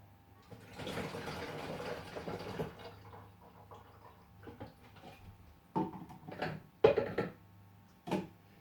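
Latex primer and water being poured into a plastic container for about two seconds, a steady splashing pour, followed by a few knocks and clunks of containers being handled.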